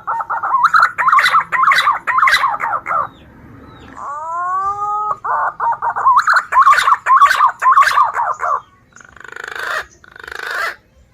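Green pigeon (punai) song: a whistled note that swells upward, followed by a rapid run of warbling whistles, with the phrase given twice. Near the end come two short rough, hoarse noises.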